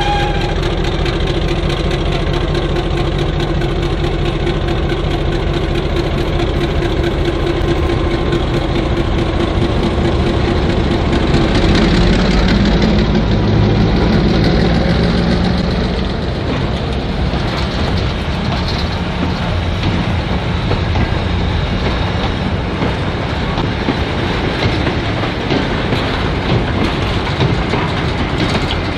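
Victorian Railways Y-class diesel locomotive running past, its engine loudest about twelve to sixteen seconds in, followed by the train's wagons and carriages rolling by with a steady clickety-clack of wheels on rail joints.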